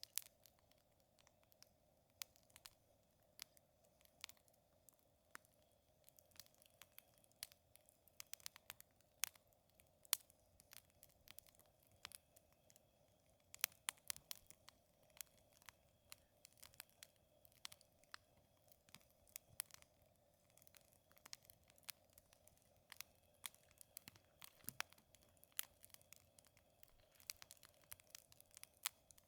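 Wood fire crackling: irregular sharp pops and snaps, a few a second at the busiest moments, over a quiet background.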